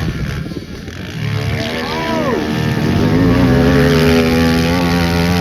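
Small pit bike engine revving up and back down about two seconds in, then running at a steady, high pitch that rises slightly.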